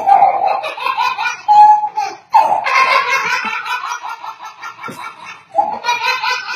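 A baby laughing in repeated high-pitched giggling bursts, in three runs with short breaks between them.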